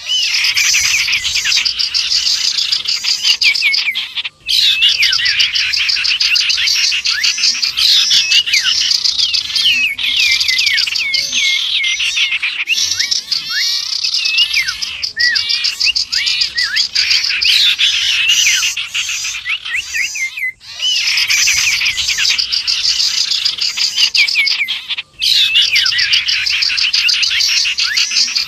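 Dense mixed birdsong lure recording: common iora calls layered with the chirps and whistled notes of other small birds, busy and continuous. It breaks off for a split second three times.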